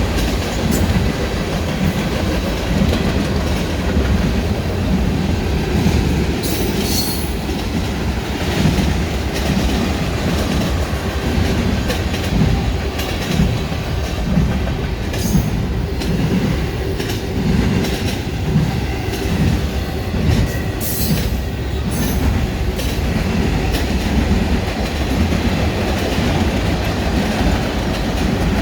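Freight train cars rolling past at close range: a continuous rumble with the repeated clickety-clack of wheels over rail joints. A few brief high wheel squeals come through.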